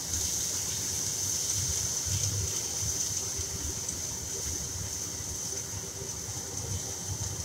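Sambal mixture sizzling steadily in hot oil in a wok: a soft, even hiss.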